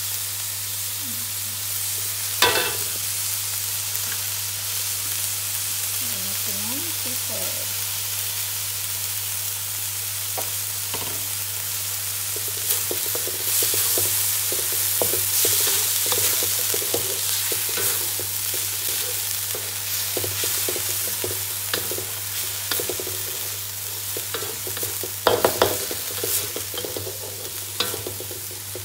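Ground meat and chopped onion sizzling in a wok while a wooden spatula scrapes and knocks against the pan as it stirs: browning the meat for spaghetti sauce. A sharp knock comes about two and a half seconds in, and a burst of louder scraping comes near the end, over a steady low hum.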